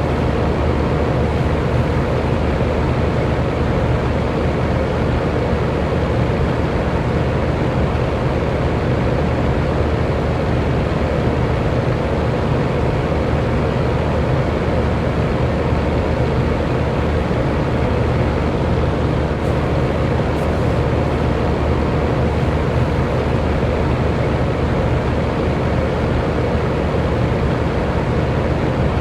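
Electric fan running steadily: an even, unbroken rush of air noise, heaviest in the low range, with a faint steady hum under it.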